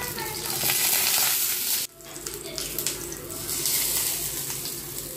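Semolina-coated vegetable cutlets sizzling as they shallow-fry in oil in a non-stick pan, while a metal spoon scrapes the pan and turns them over. The sizzle cuts out abruptly about two seconds in, then returns quieter.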